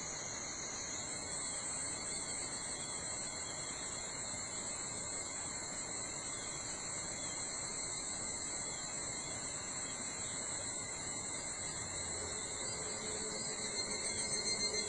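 Chorus of insects trilling steadily at several high pitches. Near the end a louder, pulsing insect call joins in.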